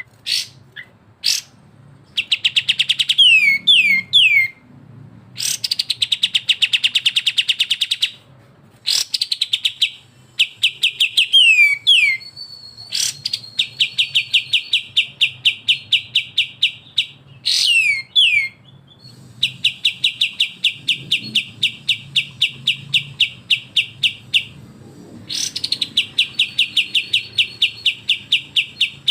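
Bulbul song for bird training: long, rapid runs of repeated sharp chattering notes, broken by short downslurred whistles and brief pauses, in the style of the fast 'besetan' song of the kapas tembak and cucak jenggot.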